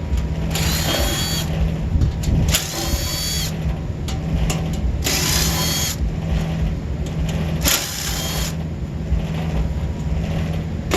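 Power drill running in four short bursts of about a second each, its motor pitch rising as it spins up and falling as it stops, over a steady low hum.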